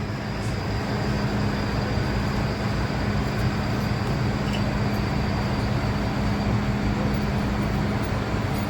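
MTR M-Train electric multiple unit pulling away from a station, heard inside the carriage: a steady traction-motor hum over a low rolling rumble, with a faint high whine.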